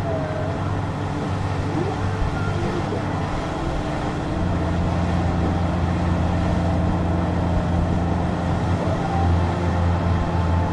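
2023 Honda Gold Wing's flat-six engine running steadily on the road; it gets louder about four and a half seconds in.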